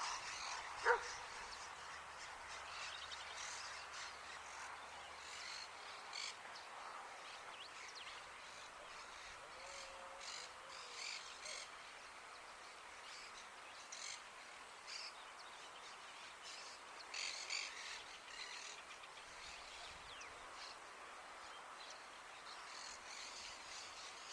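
Rufous hornero calling: short, high chirps in scattered clusters, with one sharp, louder note about a second in.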